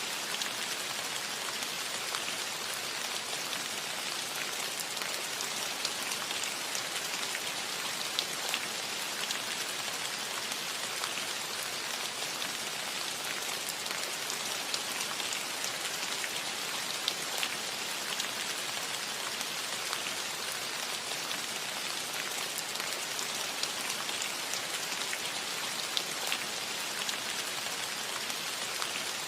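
Steady rain falling on a cottage roof: an even hiss dotted with scattered sharper drop ticks.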